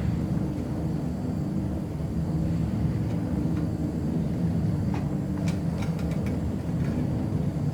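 A motor running steadily with a low hum, with a few light clicks about five to six seconds in.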